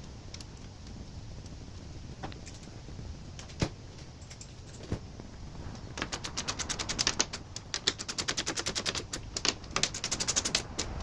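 Ratchet wrench clicking fast in short runs while nylon locking nuts are run down onto the fan's mounting bolts, after a few scattered clicks and knocks of tools and parts.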